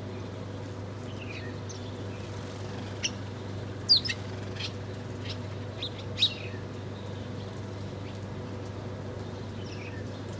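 Small birds chirping at a feeder: scattered short, sharp chirps, the loudest about four seconds in and again about six seconds in, over a steady low hum.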